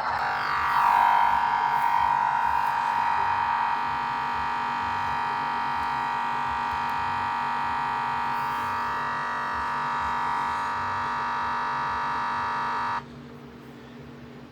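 Computer crash sound: a loud, stuck electronic buzz that is harsher for the first few seconds, then holds steady and cuts off suddenly near the end.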